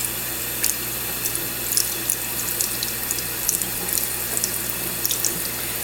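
Kitchen sink tap running in a steady stream, water splashing into the sink and over a cockatiel held under it, with small scattered drip and splash ticks.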